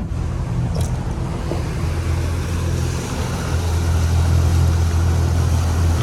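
Motorboat engine running with a steady low drone under a wash of noise.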